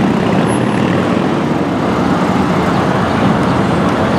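Lamborghini Gallardo Spider's V10 engine running steadily and loudly as the car moves off.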